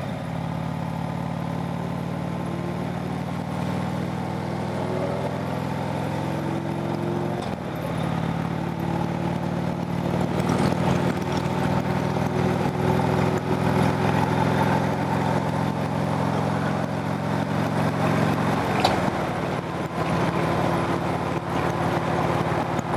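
Harley-Davidson V-twin motorcycle engine running under way, its pitch rising gently for several seconds, dipping briefly about seven or eight seconds in, then holding steady.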